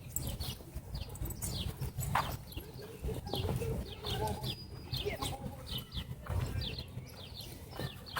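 A bird chirping repeatedly, short high notes that drop slightly in pitch, about two a second, over a low rumble of wind and movement.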